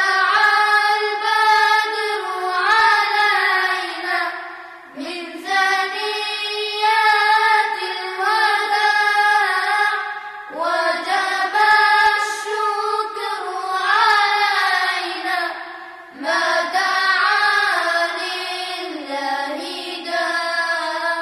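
Nasheed singing without recognisable words, voices carrying a melody in four long, gliding phrases of about five seconds each, with no drums or instruments heard.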